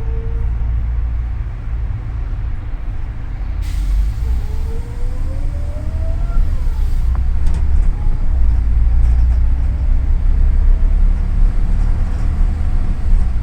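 Double-decker city bus heard from inside, its engine and the road making a steady low rumble. About four seconds in comes a short air-brake hiss, followed by a faint rising whine.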